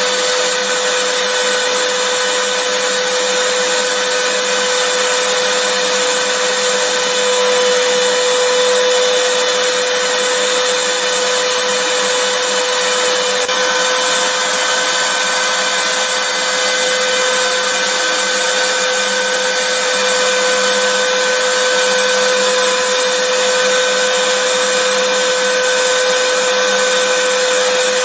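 Vacuum cleaner running steadily: an even rushing hiss of air with a constant motor whine, a faint higher tone becoming stronger about halfway through.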